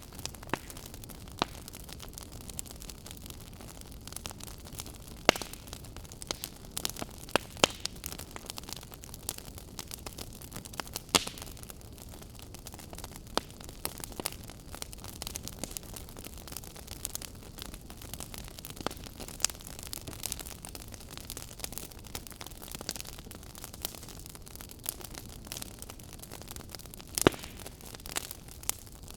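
Fire crackling: irregular snaps and pops, a few of them sharply louder, over a steady low hiss.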